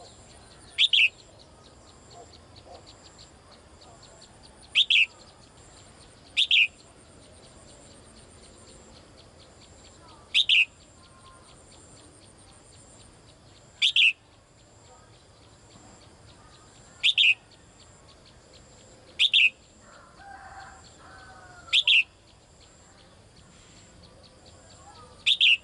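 A caged female bird giving short, sharp calls, nine in all, spaced a few seconds apart: the female calling to a male.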